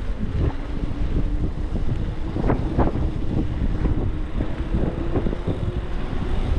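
Wind buffeting the microphone of a moving e-bike, a continuous low rumble with scattered knocks, and a faint steady tone underneath.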